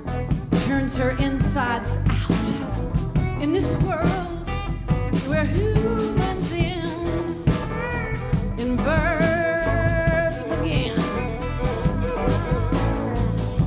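Live band playing an instrumental passage: drums keep time under a sliding, wavering lead melody line.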